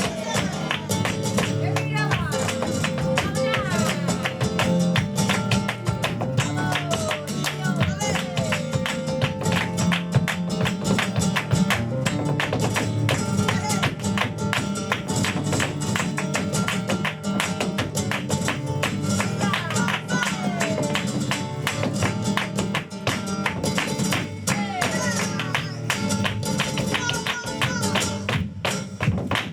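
Live flamenco tangos: a flamenco guitar playing with a singer's sliding, ornamented vocal lines, over dense sharp percussive strikes kept up in rhythm.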